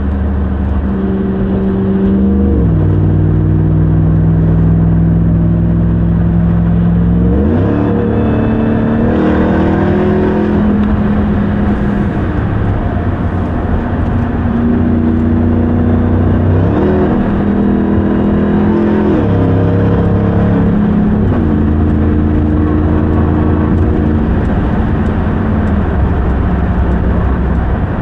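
Supercharged 6.2-litre Hemi V8 of a 2021 RAM 1500 TRX pickup pulling steadily while driving, its note dropping and climbing several times as the truck shifts gears and speeds up, with a sharp climb about seven seconds in.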